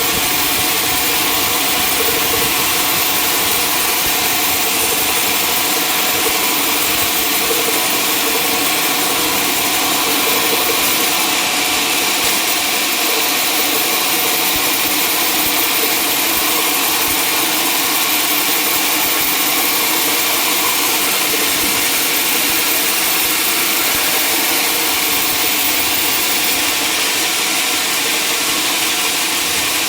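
Sawmill saw running steadily, cutting timber.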